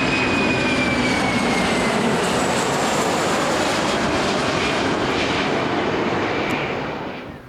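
Boeing 737-300 jet airliner coming in to land, its CFM56 turbofan engines giving a loud roar with a high whine that slowly falls in pitch. The sound drops away suddenly near the end.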